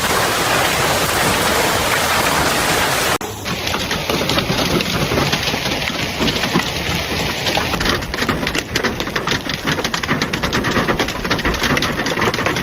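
A storm downpour: heavy rain with a steady hiss, then an abrupt change about three seconds in to a dense patter of many sharp small impacts on a hard surface, growing thicker near the end.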